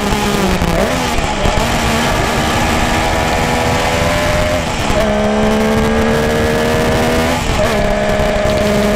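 Motorcycle engine and exhaust running steadily. The pitch dips and resets about a second in, again just before the middle, and once more near the end, as the revs change.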